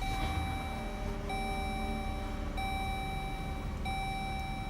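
Chrysler Pacifica's dashboard warning chime sounding as a steady tone that repeats about every 1.3 seconds, heard from inside the cabin over the low hum of the just-started 3.6-litre V6 engine.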